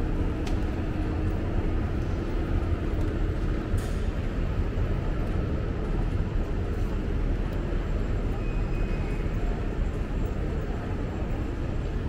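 A train running with a steady low rumble. A faint hum over it fades out about four seconds in.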